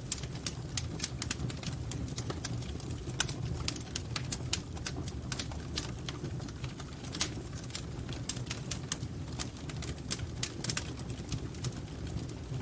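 Wood fire crackling: irregular sharp snaps and pops over a steady low rumble of the flames.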